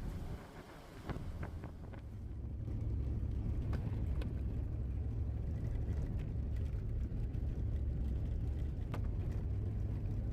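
Vehicle driving: a steady low engine and road rumble that builds over the first two seconds and then holds, with a few light clicks and rattles over it.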